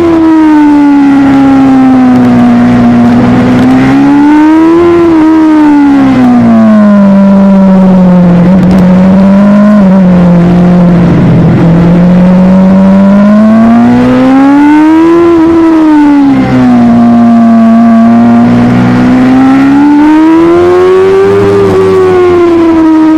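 Superbike engine running hard under the rider, loud throughout, its pitch swinging up and down with the throttle. The pitch climbs about five seconds in, sinks slowly to around the halfway mark, and climbs again. It drops sharply at a gear change a little past two-thirds of the way through, then climbs once more near the end.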